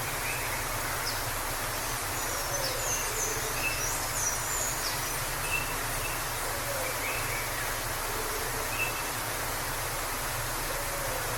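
Steady rush of a waterfall, with birds chirping briefly now and then over it, a cluster of high chirps in the first half.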